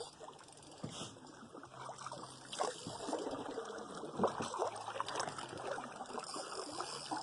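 Water lapping and trickling around a canoe hull, with irregular light knocks and splashes.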